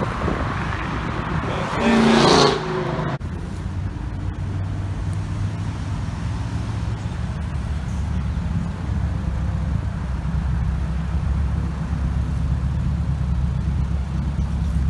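Cars driving past: a loud rush of a car going by about two seconds in, cutting off suddenly, then a steady low engine sound that builds slightly towards the end.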